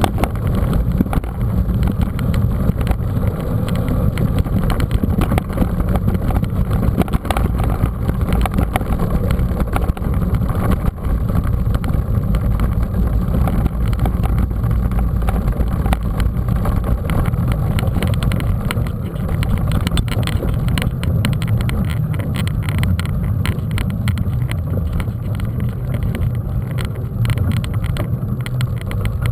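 Steady low rumble of wind buffeting a camera microphone on a mountain bike in motion, with continual irregular rattles and knocks from the bike jolting over rough ground.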